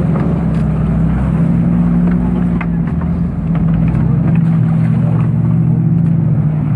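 An engine running steadily at a constant pitch, with a low rumble underneath.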